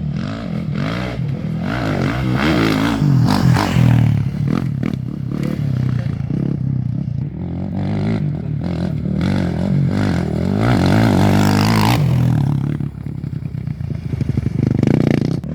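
Off-road race motorcycles going by at speed, engines revving and sweeping up and down in pitch as they pass, loudest about 3 to 4 seconds in and again around 10 to 12 seconds in.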